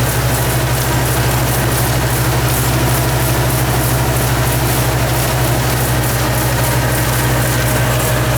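Yanmar farm machine's engine running steadily, a constant low hum with a fast, even pulsing in the high hiss.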